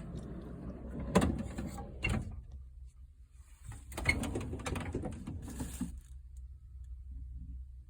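Metal toolbox drawers and tools being handled: two spells of sliding, rattling clatter with sharp clicks, the second starting a little under four seconds in.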